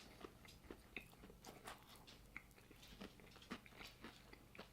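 Faint chewing of a crunchy barbecue chicken sandwich, heard as irregular small crunches and mouth clicks.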